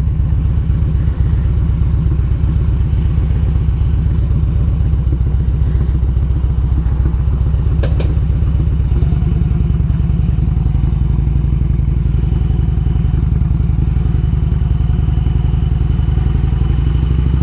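Harley-Davidson Road King's V-twin engine running steadily under way, with a low pulsing beat. There is one brief sharp click about eight seconds in.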